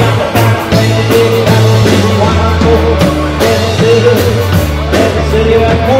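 Live rock and roll band playing loudly, with a steady beat and a moving bass line.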